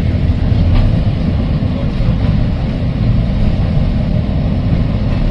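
Heritage electric tram running along the line, heard from on board: a steady low rumble from the wheels and running gear, with a sharp click under a second in.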